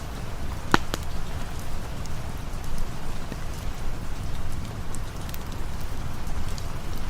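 Steady rain ambience with a campfire crackling: sharp pops scattered throughout, the loudest about a second in.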